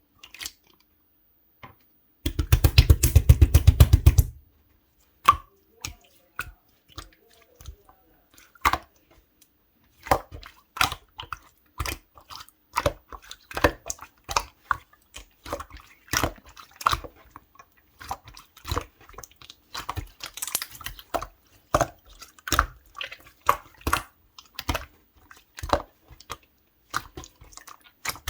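Clear slime being pressed and squished by hand. There is a dense run of quick wet pops about two seconds in, then irregular sticky clicks and pops, several a second.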